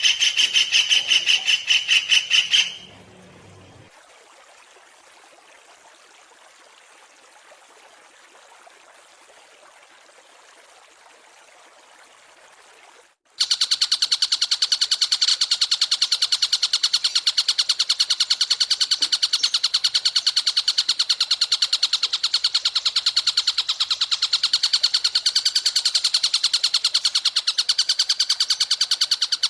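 Recorded songbird trills: a fast, even string of high notes that stops a few seconds in, a faint hiss for about ten seconds, then another loud, fast, rapidly repeating trill that starts about halfway through.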